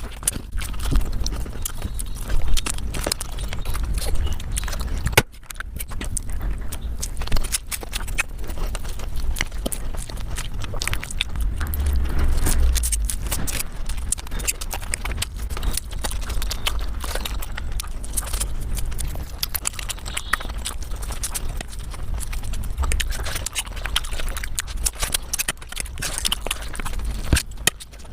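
Mukbang eating sounds sped up about five times: rapid chewing, smacking and crunching run together into a dense stream of clicks over a low rumble, broken by a brief cut about five seconds in.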